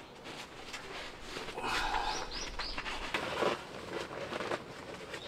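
Small birds chirping in runs of short, high, arched notes, a few a second, with a coarser, lower sound about two seconds in.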